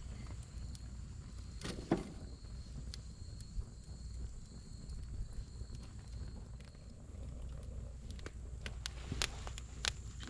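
Firewood burning in a fire pit, crackling with scattered sharp pops, one about two seconds in and a cluster near the end, over a low steady rumble.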